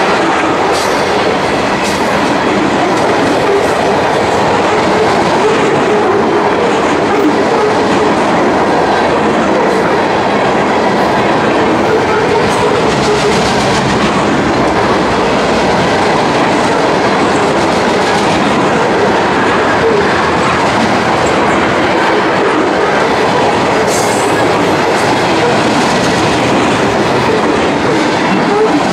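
Freight cars of a long mixed train rolling past close by: a steady rumble and rattle of steel wheels on the rails, with the clickety-clack of wheels over rail joints.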